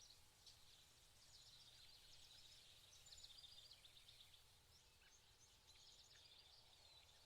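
Faint birdsong: small birds chirping in short, rapid trilled phrases, several times over, above a low steady rumble.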